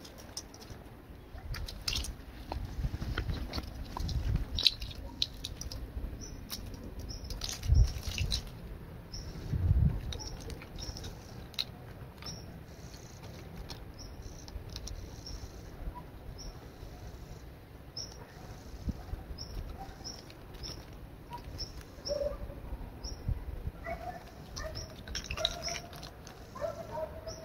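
Small birds chirping in short high notes again and again, with scattered rustles and low thumps, loudest in the first ten seconds. Near the end there are a few short pitched animal calls.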